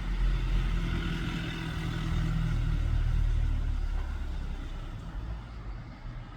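A motor vehicle's engine running with a steady low rumble, growing quieter over the last few seconds.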